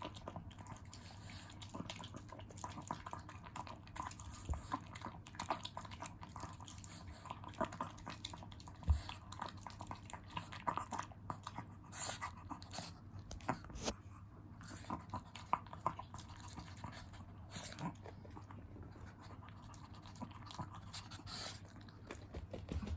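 A chihuahua eating noodles, chewing and smacking with many small irregular clicks of mouth and teeth.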